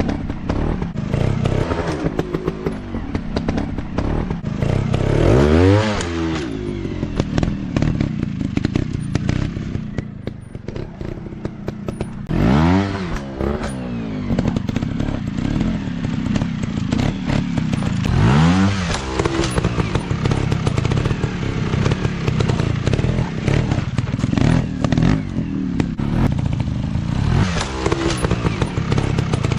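Off-road dirt bike engines running, revving up and dropping back about four times, over a steady clatter of knocks and crackles.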